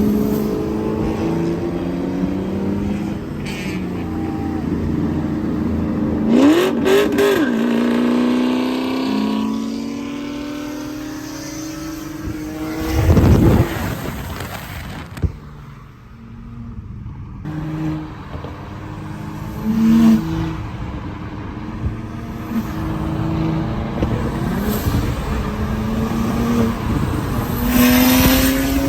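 Car engines running and revving, pitch rising in several pulls, with a loud surge like a car passing about 13 seconds in.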